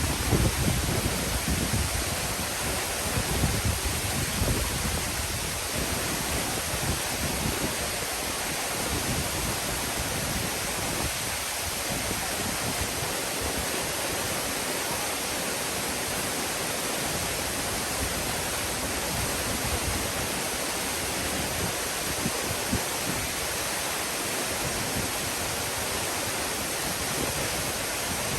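Waterfall pouring, a steady, even rush of falling water. In the first few seconds wind buffets the microphone with low gusts.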